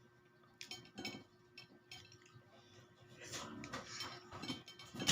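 Cutlery clinking against a plate during a meal: scattered light clinks, busier near the end, with the loudest clink at the very end.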